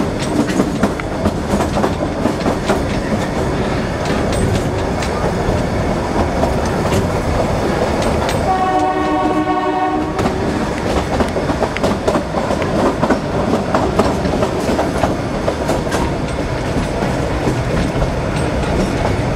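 Kalka–Shimla narrow-gauge toy train heard from inside a carriage with the window open: steady rumble and clatter of wheels on rails. About eight seconds in, the train's horn sounds once for about two seconds.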